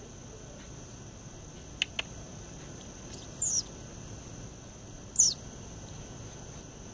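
Two short, very high bird calls, each sweeping quickly downward, the second one louder, over a steady high-pitched insect drone. Two sharp clicks come shortly before the first call.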